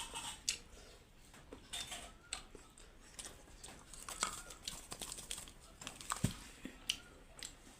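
Close-up eating sounds: irregular wet smacks and clicks of chewing, several each second.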